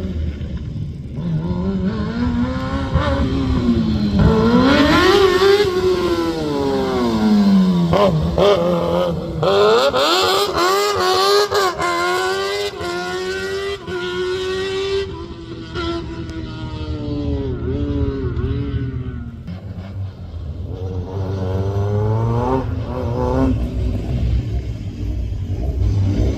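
Rally car engine driven hard, revving up and down with repeated gear changes, a quick run of upshifts in the middle, and a few sharp cracks among the engine note.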